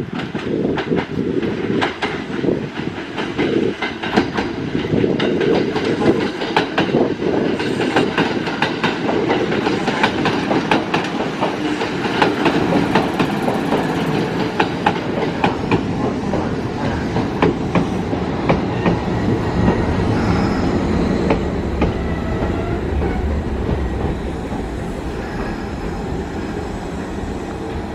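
Kintetsu Kyoto Line electric train running along the track, its wheels clacking over rail joints in a rapid, uneven series over a steady rumble. The clacking thins out and gives way to a quieter rumble near the end.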